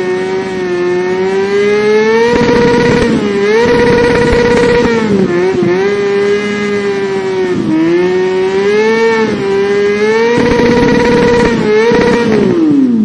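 A high-pitched motorcycle engine, revving up and down between a higher and a lower pitch several times, then winding down with a steep falling pitch near the end.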